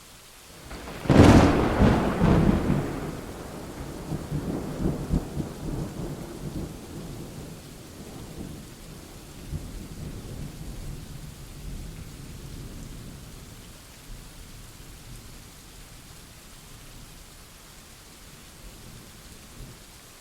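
A thunderclap about a second in: a sharp crack, then rolling rumbles that fade away over the next fifteen seconds or so. Steady rain falls throughout.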